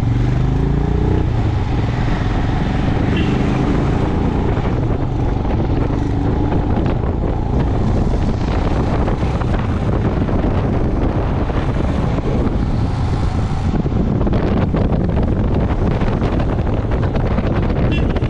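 Motorcycle engine running steadily while riding, with wind rushing over the microphone; the engine note rises in the first second as the bike picks up speed.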